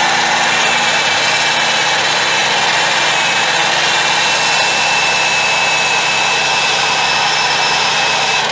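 Electric drill with a foam polishing pad running at steady high speed, buffing cut polish onto a plastic headlight lens under light pressure. Loud, even motor noise with a constant high whine.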